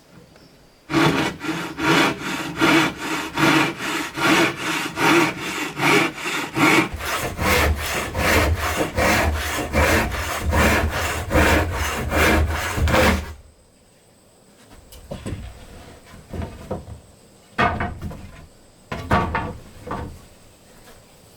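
Hand saw cutting through wood in quick, even strokes, about three a second, stopping about two-thirds of the way through; after that, a few lighter knocks of wood being handled.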